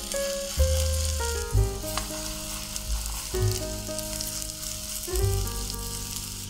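Cauliflower fritters frying in oil in a pan: a steady sizzle. Background music with a bass line plays along with it.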